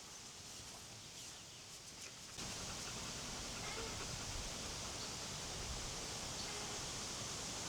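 Quiet rural outdoor ambience: a steady hiss that gets louder abruptly about two and a half seconds in, with a few faint chirps.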